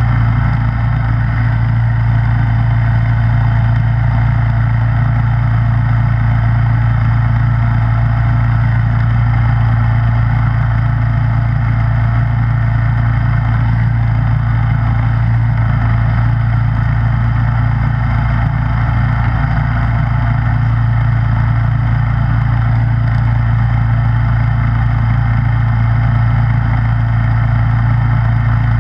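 Snowblower engine running steadily, with a strong low hum that holds the same pitch and level throughout.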